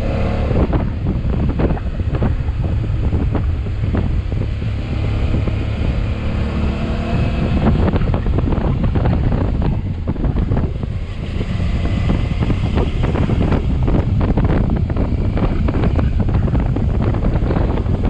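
Motorcycle on the move, its engine faintly audible under heavy wind buffeting on the microphone.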